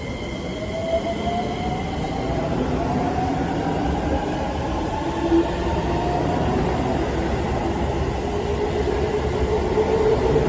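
Chiba New Town Railway 9200 series electric train pulling away, its inverter-driven traction motors whining in tones that rise slowly in pitch as it gathers speed, over the rumble of the wheels on the rails. It grows a little louder toward the end.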